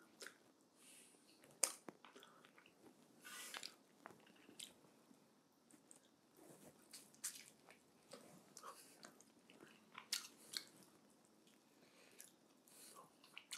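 A person biting and chewing meat off a roast chicken drumstick: quiet wet mouth sounds and sharp little clicks coming at irregular moments.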